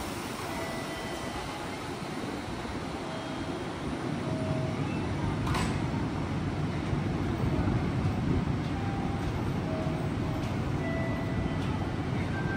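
Electric commuter train running on the station track, a steady rumble and wheel noise that grows louder about four seconds in, with one sharp click midway.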